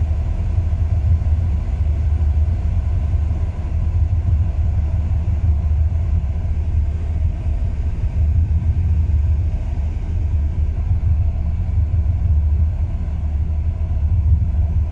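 2002 Ram 1500's 5.9-litre Magnum V8 idling with a steady low rumble that wavers unevenly in level. The owner describes a rough idle with the rpm dropping, which appears only once the engine is warm.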